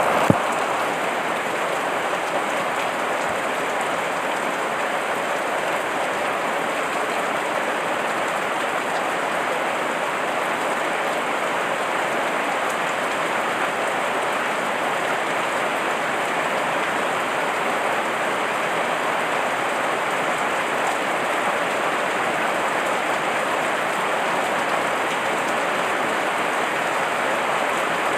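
Heavy rain falling steadily, a dense, even hiss of drops on surfaces that neither builds nor fades, with one brief tick just after the start.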